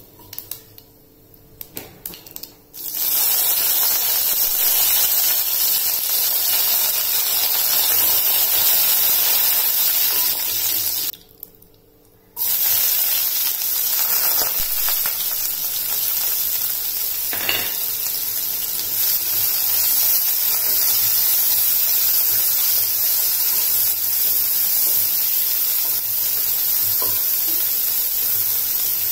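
Hot oil sizzling loudly in a kadai as whole spices and then chopped onions fry, with a wooden spatula tapping and stirring. Light taps come first, the sizzle starts suddenly about three seconds in, breaks off for about a second near the middle, and then resumes.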